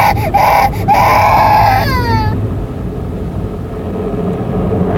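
A young child crying loudly, a high wail held for about two seconds that slides down in pitch at the end, over the steady low rumble of the car wash, which carries on alone afterwards.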